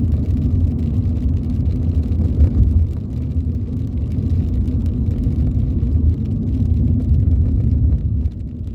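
A car heard from inside its cabin, its engine and road noise making a steady low rumble.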